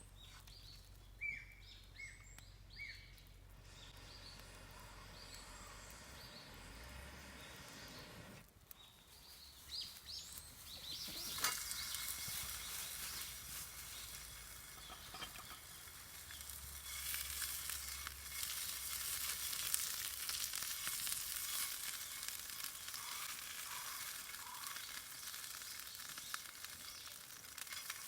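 Food frying in a pan: a quiet start with some clatter, then from about eleven seconds in a steady sizzle that carries on.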